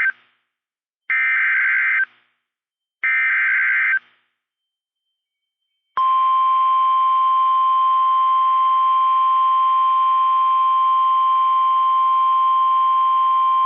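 NOAA Weather Radio emergency alert signal. First come the end of one SAME digital header burst and two more full bursts of screechy data tones, each about a second long and a second apart. After a short silence, about six seconds in, the steady 1050 Hz warning alarm tone begins. This tone announces a warning broadcast.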